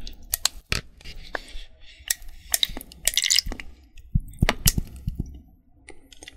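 Close-miked ASMR trigger sounds: an irregular run of sharp clicks and crackles, with a longer crackling patch about halfway through.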